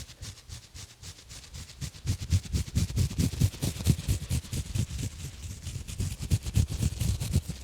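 Textured exfoliation gloves rapidly rubbing and scratching close around a microphone, in quick repeated strokes that each give a scratchy rasp with a soft low thump.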